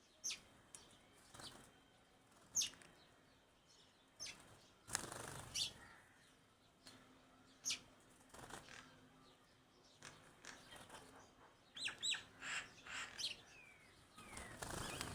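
Small pet birds chirping with sharp, short high calls at irregular intervals, busier near the end, with brief wing flutters.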